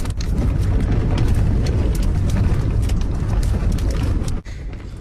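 Strong gale wind buffeting the microphone and camper van: a loud, low rumbling rush with many sharp rattling clicks. It cuts off abruptly about four seconds in, and a quieter wind noise follows.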